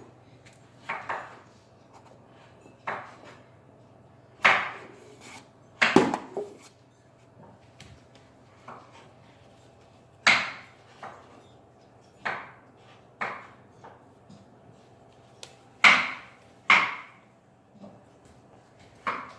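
Irregular clacks and taps of a fridge magnet knocked against a refrigerator door, about a dozen spread unevenly with pauses of a second or more between them, over a faint steady low hum.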